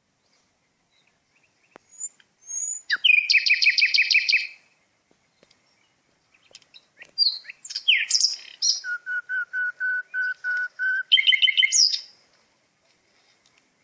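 Songbirds singing in bursts of quick, high chirping notes, with a run of evenly repeated lower whistled notes, about four a second, near the middle.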